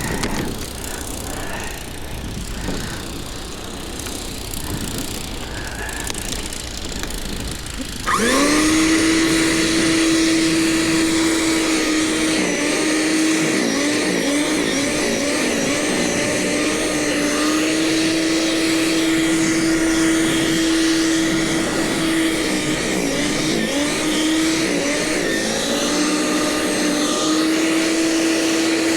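A snowblower motor starts about eight seconds in, quickly rising in pitch to a steady whine, and keeps running.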